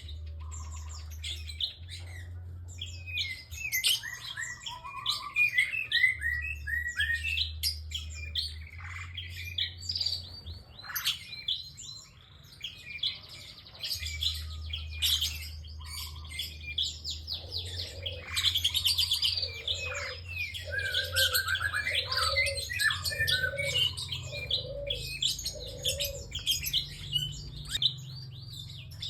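A prinia (prenjak) singing nonstop: fast, sharp high chirps and rattling trills in quick runs. In the second half a row of lower notes comes about once a second. A steady low hum runs underneath.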